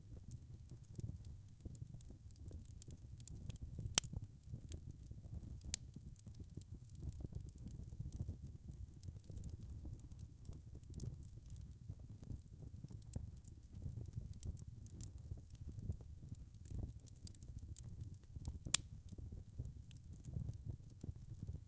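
Wood fire crackling: a low steady rumble of burning logs with frequent small snaps and pops, two sharper pops about four seconds in and near the end.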